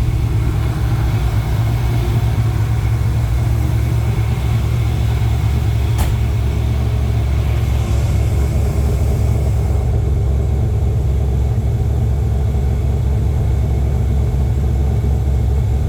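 LS V8 engine in a Porsche 951 idling steadily, heard at the exhaust, still on its warm-up idle after a cold start. A single short click comes about six seconds in.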